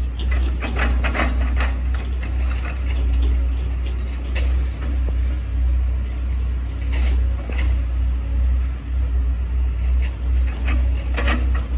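Hitachi ZX110MF excavator's diesel engine running with a deep steady drone, with bursts of sharp knocks and crackles over it, the densest about a second in and again near the end.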